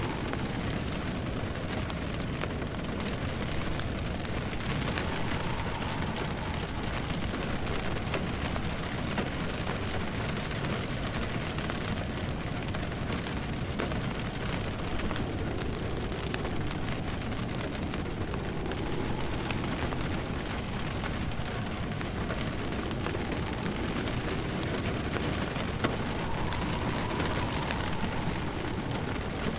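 Steady rain falling, mixed with the crackle of a burning fireplace fire, with one sharper pop about 26 seconds in. A faint wind whistle swells now and then.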